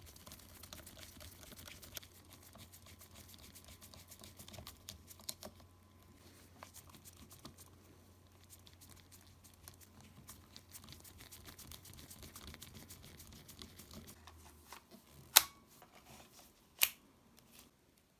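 Nintendo Switch console parts being handled: a steady run of small plastic and metal clicks and taps, with a low hum underneath that stops near the end. Two loud, sharp clicks follow, about a second and a half apart.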